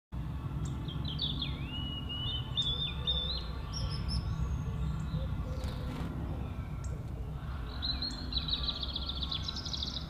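Birds calling: a few whistled notes in the first seconds, some gliding down and back up, then a fast trill of short high notes that rises in pitch near the end, over a steady low rumble.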